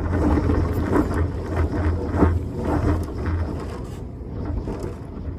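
Strong wind gusting against a house, with a window rattling in its frame in repeated irregular knocks over a low rumble of wind.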